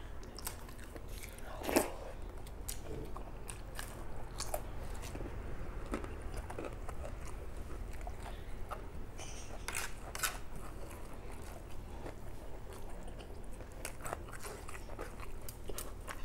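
Close-miked eating: steady chewing and crunching of a mouthful of food, with many small wet mouth clicks. Two louder crunches stand out, about two seconds in and again about ten seconds in.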